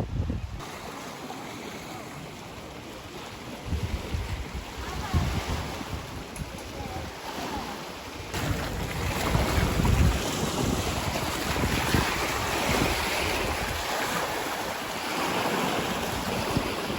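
Wind buffeting the microphone over the wash of sea waves, growing louder about halfway through.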